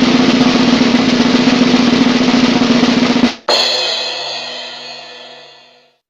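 Drum roll effect: a fast snare drum roll, then about three and a half seconds in a final hit with a ringing crash that fades out over a couple of seconds.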